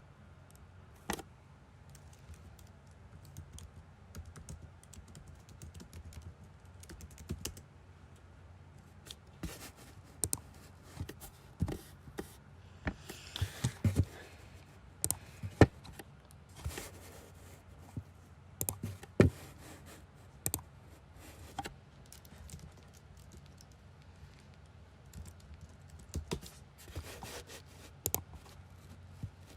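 Scattered, irregular clicks and taps, some sharper than others, thickest in the middle stretch.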